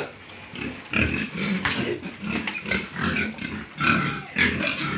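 Pigs grunting, a run of short, irregular grunts one after another.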